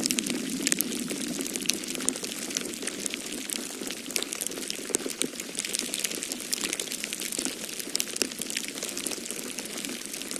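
Wood fire crackling in a fireplace, a dense run of small sharp pops and snaps, over a steady low rush of snowstorm wind.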